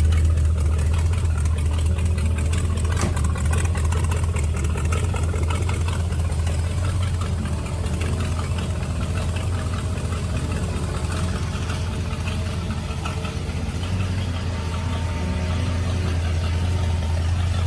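The 350 V8 in a hot-rodded 1930 Ford Model A, breathing through headers, idling steadily with a low, even hum just after a cold start.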